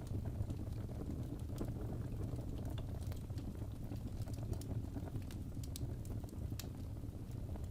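Wood fire burning in a fireplace: a steady low rumble with scattered small sharp crackles and pops.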